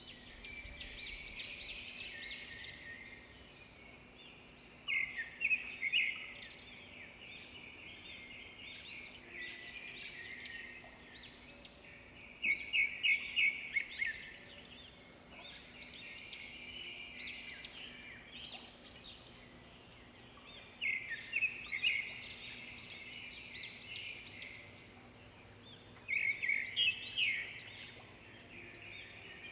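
Songbirds singing and twittering, with a loud phrase of rapid high notes coming back about four times, every seven or eight seconds, over steadier chirping.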